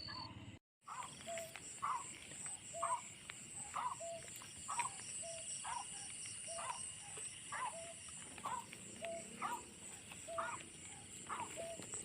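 A bird's short call repeated over and over in a steady rhythm, roughly two calls a second, typical of a white-breasted waterhen, over a steady high-pitched chorus of night insects. The sound drops out briefly just after the start.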